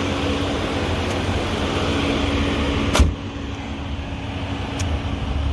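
Audi SQ7's 4.0-litre twin-turbo V8 idling with a steady hum and hiss, with one sharp knock about three seconds in.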